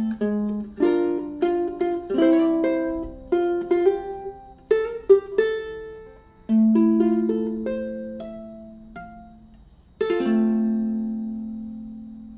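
Solo fingerstyle ukulele: plucked melody notes over chords, thinning out toward the close, then a final chord struck about ten seconds in and left to ring and fade.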